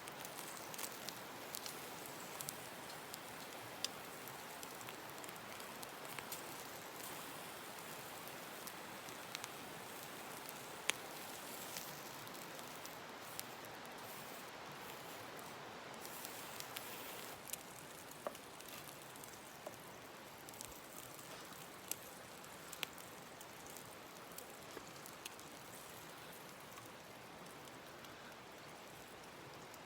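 Burning firewood crackling, with scattered sharp pops over a steady hiss.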